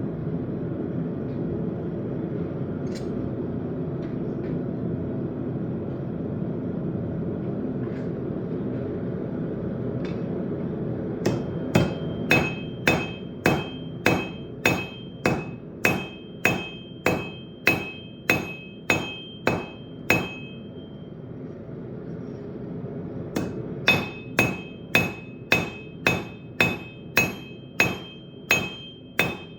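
Blacksmith's hammer forging steel on an anvil: a steady run of ringing blows, about two a second, a pause of a few seconds, then another run. Before the hammering starts there is a steady low rushing noise for about ten seconds.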